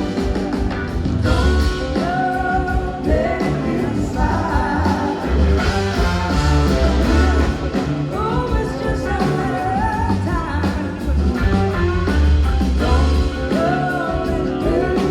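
Live rock band playing a blues-rock song, with a lead singer over electric guitar, heavy bass and drums.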